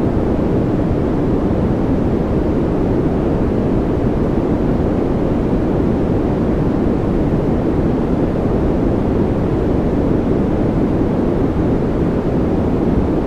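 Steady generated white noise for sleep, a deep, even rushing with little treble and no change in level.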